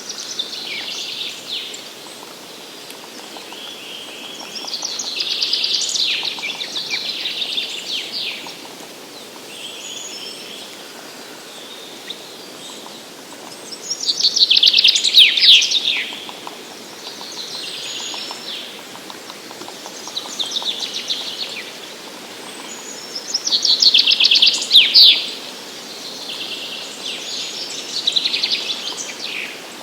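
Wild songbirds singing: a string of short, high song phrases, each a few seconds long, two of them louder, about halfway through and near the end, over a steady background hiss.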